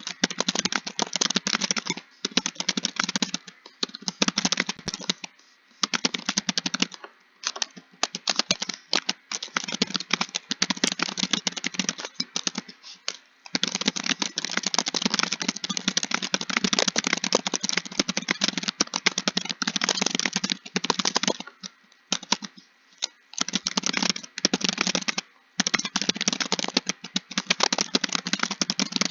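Fast typing on a computer keyboard: long runs of rapid keystrokes broken by several brief pauses, the longest a little after halfway.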